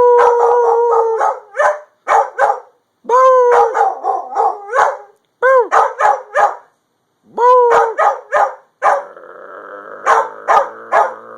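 Puppy howling: three long howls, each rising then falling in pitch, each followed by a quick run of short yips and barks. A fainter steady sound of several held tones runs underneath from about nine seconds in.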